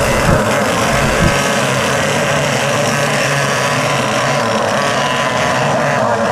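Racing engines running steadily, with two brief low thumps in the first second and a half.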